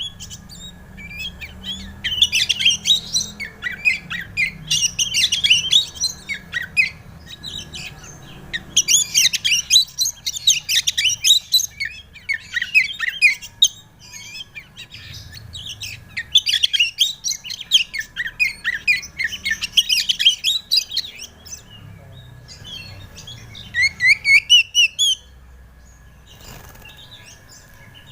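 Oriental magpie-robin (kacer) singing: long, varied phrases of rapid chirps and whistles broken by short pauses, ending with a run of about six quick rising whistles. A faint steady high tone sits underneath.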